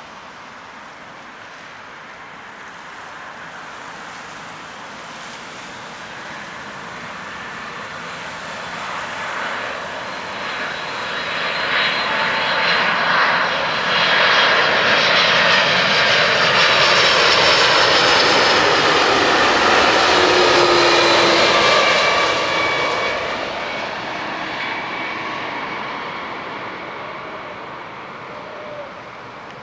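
Boeing 767-300ER jet airliner passing on its landing, the engines' rumble and whine building to a loud peak and then fading, with the whining tones falling in pitch as it goes by.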